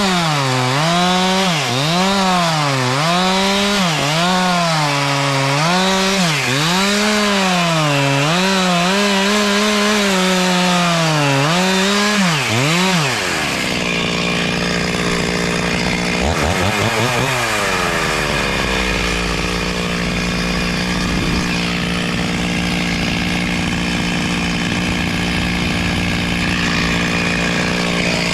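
Chainsaw cutting into a tree, its engine pitch dipping and recovering about once a second as the chain loads in the wood. About halfway through the cutting stops and the engine runs on steadily, with one rising rev.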